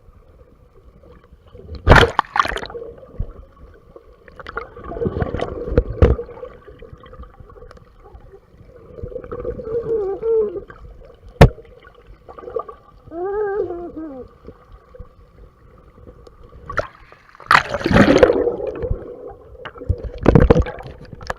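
Water sloshing and gurgling against a GoPro's waterproof case, muffled, coming in irregular surges, with a single sharp click in the middle.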